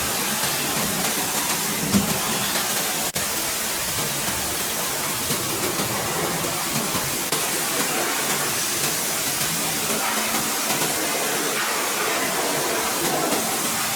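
A steady hissing rush of car-cleaning spray equipment, with a brief break about three seconds in.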